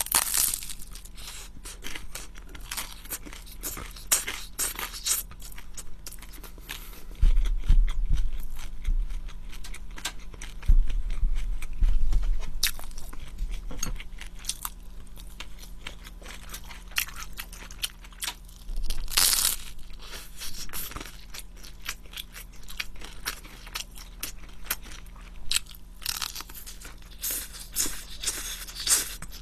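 Close-miked chewing and mouth sounds of someone eating spaghetti, with crunchy bites and many small wet clicks. A few low thumps come around seven and eleven seconds in.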